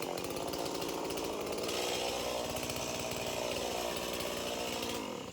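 Chainsaw engine running steadily, with no change in speed, stopping near the end.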